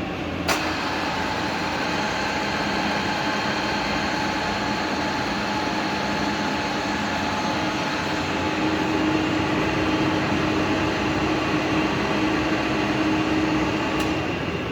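FSS315 milling machine running steadily, a dense mechanical noise with a few steady tones, with a sharp click about half a second in and another near the end.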